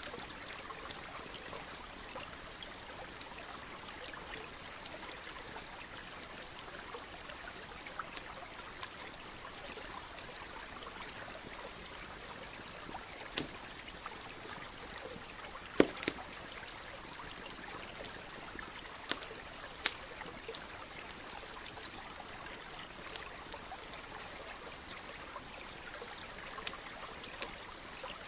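Steady rushing of a stream, with a campfire crackling over it in scattered sharp pops and snaps, two louder pops near the middle.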